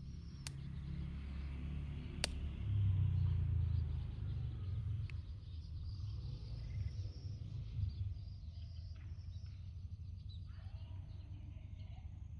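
Low steady rumbling noise outdoors, swelling about three seconds in, with two sharp clicks early and faint high bird-like chirps.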